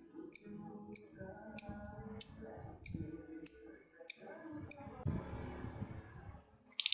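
Lovebird giving short, sharp, high single calls, evenly about one every 0.6 s, which stop after about five seconds. Near the end the lovebird breaks into a loud, very fast, long chattering trill, the 'ngekek' call.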